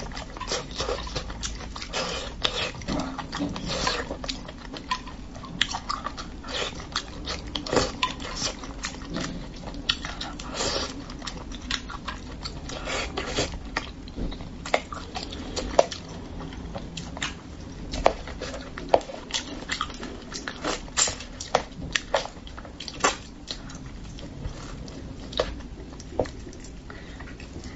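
Close-miked eating of spicy braised fish: wet chewing, lip smacks and many short, sharp mouth clicks at an irregular pace.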